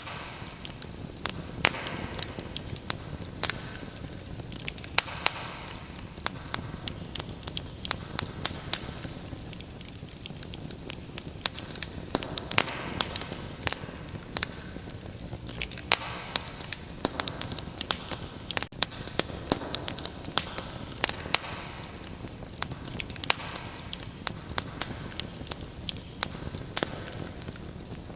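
Wood fire burning and crackling, with frequent irregular sharp pops and snaps over a soft steady hiss.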